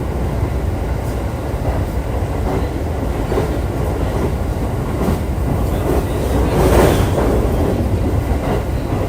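Running noise of a JR East E531-series electric train heard from inside the carriage. The wheels rumble steadily on the rails, with faint rail-joint clicks and a brief swell about seven seconds in.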